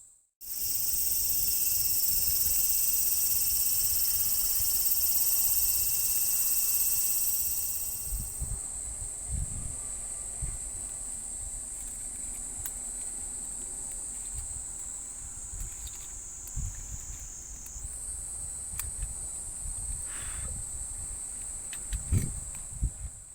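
Insects shrilling in a steady, high, continuous chorus. A higher layer of the shrilling drops away about eight seconds in. Occasional low thumps, with a few louder ones near the end.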